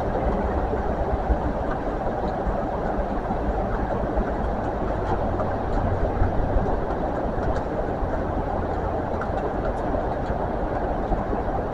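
Train running on the line: a steady rumble of wheels on the rails, with a few faint light ticks.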